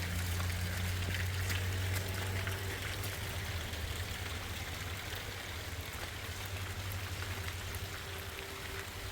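Heavy rain falling steadily, with scattered drop hits, over a low rumble that fades after about three seconds.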